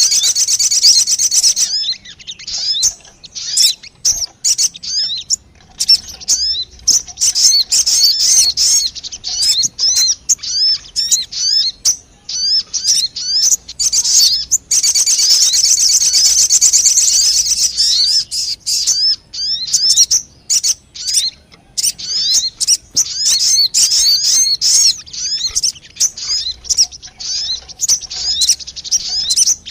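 Sogon bird lure call: dense, rapid, high-pitched chirping and twittering in quick runs, broken by short pauses.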